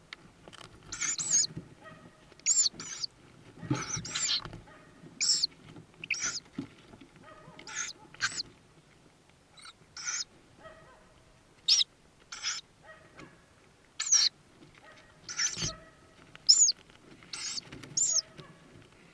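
Tawny owl chicks in a nest box giving short, high calls, irregularly about once a second.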